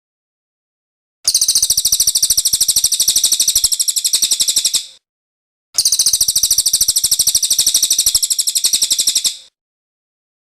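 Cililin bird song: two rapid trills of evenly repeated high, shrill notes, each lasting about three and a half seconds, with a short pause between.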